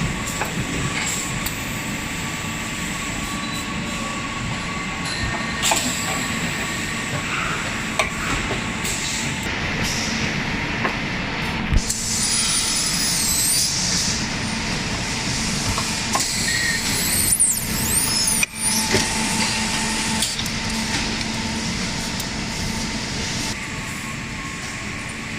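Hydraulic tube end forming machine running: a steady mechanical hum and hiss, broken by a few sharp knocks.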